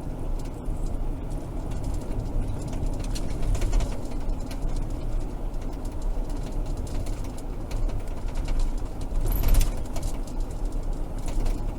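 Road and engine noise inside a moving police patrol car: a steady low rumble, with a brief louder rush about nine and a half seconds in.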